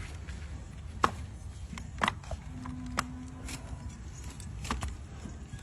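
Donkey's hoof being trimmed with a cutting blade: short sharp cutting clicks, roughly one a second, over a low background rumble.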